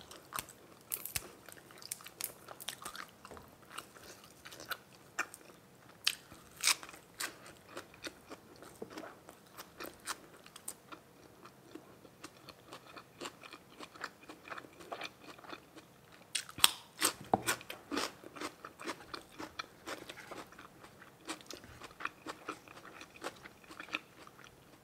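A person biting and chewing food close to the microphone: irregular sharp, wet clicks and crunches, with a cluster of louder crunches about two-thirds of the way through.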